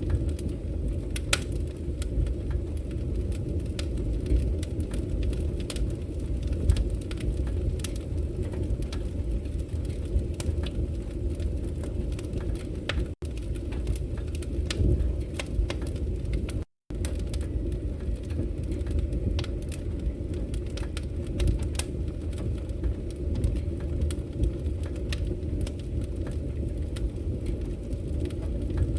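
Wood fire crackling in a fireplace: a steady low roar of flames with frequent sharp pops and snaps. The sound cuts out for an instant twice, about thirteen and seventeen seconds in.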